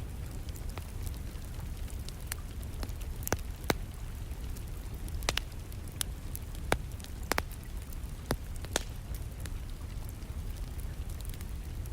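Wood fire crackling, with sharp, irregular pops and snaps over a steady low rumble, mixed with the steady patter of distant rain.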